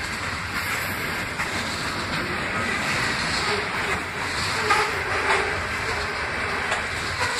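Freight train cars, tank cars and covered hoppers, rolling past on the rails: a steady noise of wheels on track, with a few sharper clacks of wheels over rail joints in the second half.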